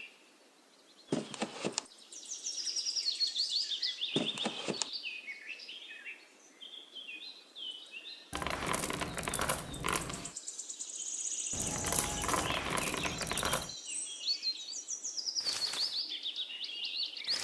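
Small birds chirping and twittering in quick short calls, with several bursts of noise, the longest about two seconds each, over the top.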